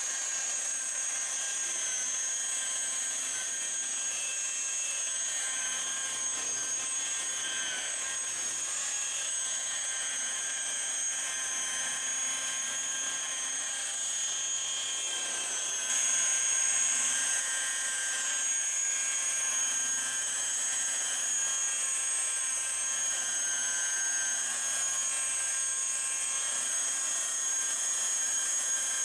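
Electric polishing buffer running steadily with a high-pitched whine as it buffs swirl marks out of a truck's paint. It gets a little louder about halfway through.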